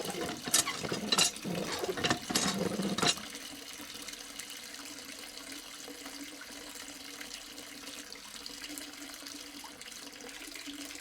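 Water from a miniature hand pump splashing, with several sharp clicks in the first three seconds, then a quieter steady trickle of water.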